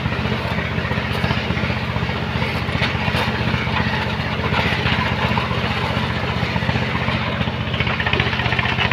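Engine of a sand-loading machine running steadily at a constant speed, with a fast, even low throb.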